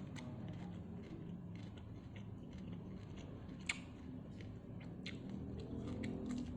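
Close-up eating sounds: chewing, with many short wet clicks and smacks of the mouth and a sharper click about halfway through.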